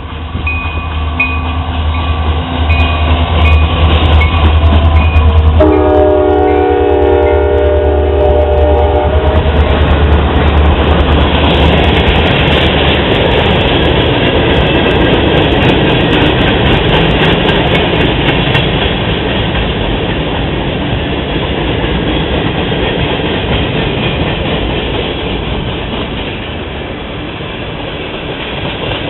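Diesel freight locomotives passing close by with a heavy engine rumble; about five seconds in the horn sounds one chord for around three and a half seconds. After that the string of freight cars rolls past with a steady rush and clickety-clack of wheels on rail joints.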